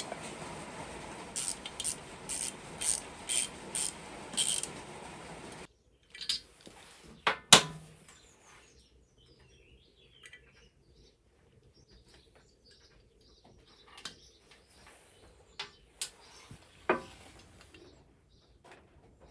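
Workshop hand-tool and parts sounds: a steady hiss with a run of regular metallic clicks, about two a second, cuts off suddenly. Scattered clicks and knocks follow, the loudest about two seconds after the cut.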